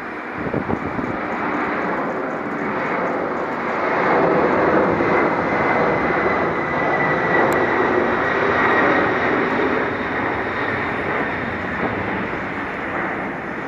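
Boeing 747-400F freighter's four jet engines at takeoff power, a heavy steady roar that swells as the aircraft passes, peaks mid-way, then begins to fade. A faint high whine in it drops slightly in pitch as the jet goes by.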